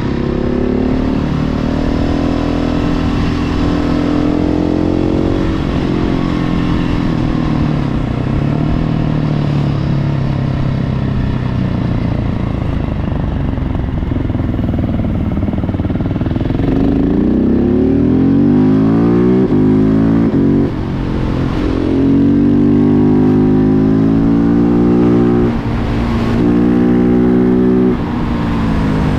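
Husqvarna 701 Supermoto's single-cylinder engine, through a Remus Blackhawk exhaust, under way: it runs steadily at first, then accelerates with rising pitch from about the middle, with three short dips in loudness near the end as it shifts gear.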